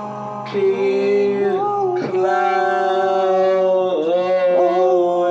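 Male voices singing long held notes in close harmony, changing chord about two and four seconds in, over a steady low backing note.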